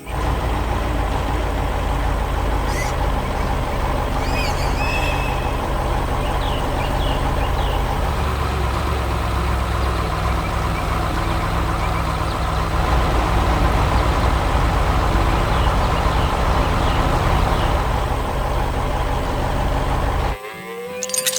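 Heavy farm machine's engine running steadily and loud, with a few brief high squeals about three to five seconds in; it cuts off suddenly near the end.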